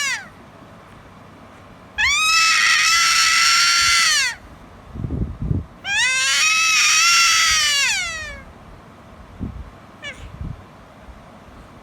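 Two long, high-pitched vocal squeals, each about two seconds, sliding up at the start and trailing down at the end, with quieter low sounds between them.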